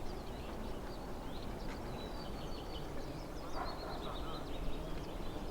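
Small birds chirping and trilling in quick short calls over a steady low rumble.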